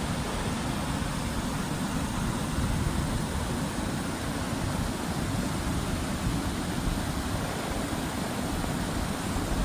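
Waterfall: falling water making a steady, even rushing noise, heaviest in the low range.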